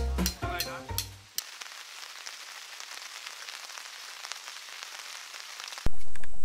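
Background music that stops about a second and a half in, followed by a steady hiss of falling rain with faint ticks in it. Shortly before the end a louder outdoor sound cuts in abruptly.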